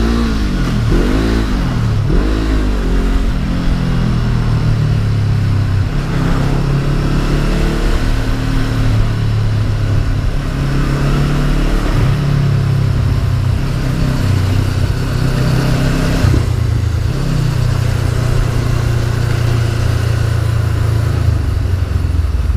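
Honda CB500F's parallel-twin engine running under way, its pitch rising and falling through gear changes over the first few seconds, then holding fairly steady with occasional steps up and down, over a steady rush of wind noise.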